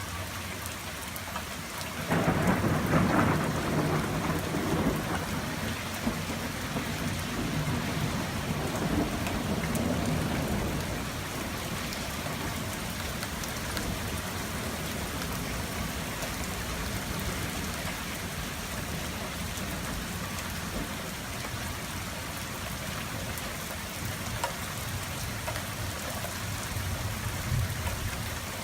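Steady rain falling, with a clap of thunder breaking about two seconds in and rumbling away over several seconds, and a fainter rumble of thunder near the end.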